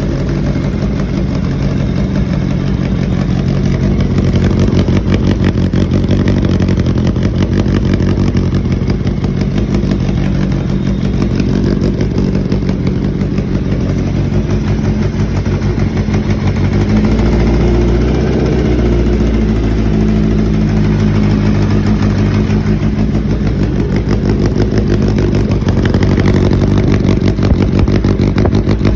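Carbureted engine running steadily, its carburettors freshly tuned and its ignition timing set right. The engine speed changes briefly a little past the middle, then settles again.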